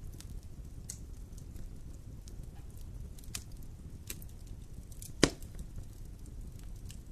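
Wood campfire burning: scattered sharp crackles over a low steady rumble, with one loud pop about five seconds in.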